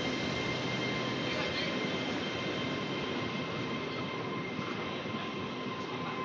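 A train running past at a station: steady rumble and rail noise with a held whine over it, easing off slightly near the end.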